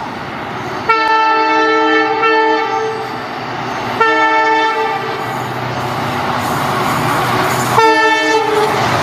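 Train horn sounding three blasts, a long one followed by two shorter ones, over the steady running noise of a moving train.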